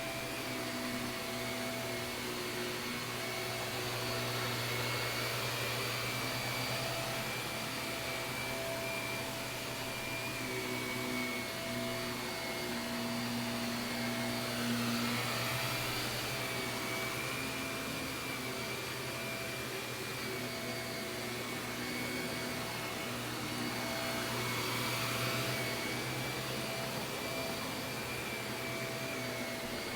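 Shark vacuum cleaner running steadily over carpet, its motor whine holding one high pitch. It grows a little louder about halfway through and again near the end.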